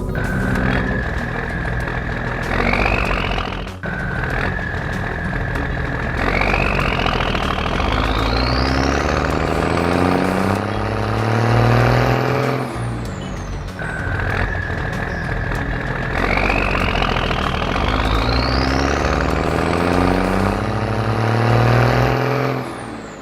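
Cartoon army-truck and machine sound effects: a low engine drone under a steady high whine that twice climbs sharply in pitch, with a falling whine after each climb.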